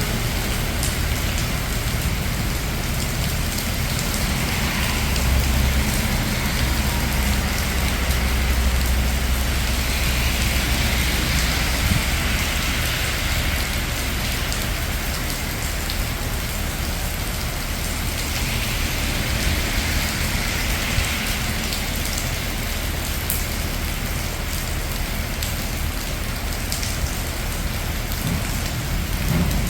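Steady rain falling on a city street, with the hiss of cars passing on wet road swelling twice. A low rumble runs for several seconds early in the stretch.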